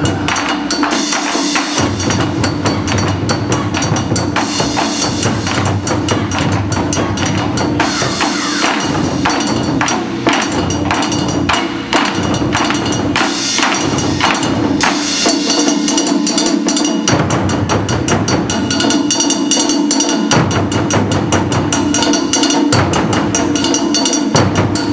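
Japanese taiko drum ensemble playing a fast, dense rhythm of sharp strikes throughout. Deep drum hits come in and drop out in stretches.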